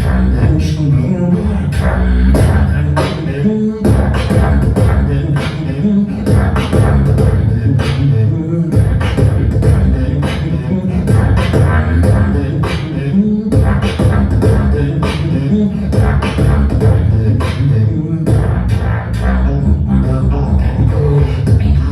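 A beatboxer performing a battle round into a microphone: heavy, continuous bass with rapid, rhythmic clicks and snare-like hits.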